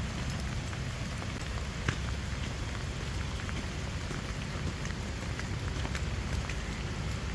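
Steady rain falling, with many scattered drop ticks over a low rumble.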